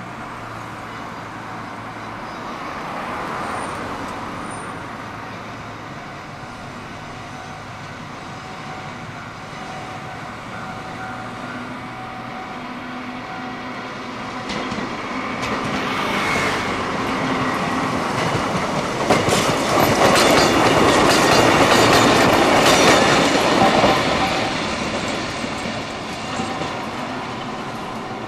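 Vintage Kotoden electric railcars No. 120 and No. 300, built in 1926, running past. The sound swells from about halfway through, with wheels clattering over rail joints at its loudest, then fades away.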